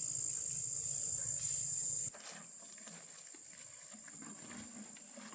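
Steady high-pitched insect buzz, such as cicadas or crickets, loud for the first two seconds, then dropping abruptly to a fainter level at a cut. After the drop, scattered faint ticks and rustles are heard.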